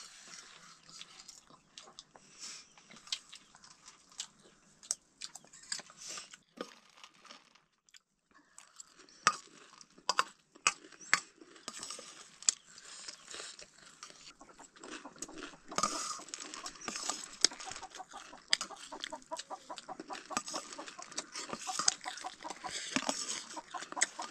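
Close-up chewing and crunching of dry snacks, with scattered sharp clicks and crackles. It pauses briefly about a third of the way in and then comes back denser.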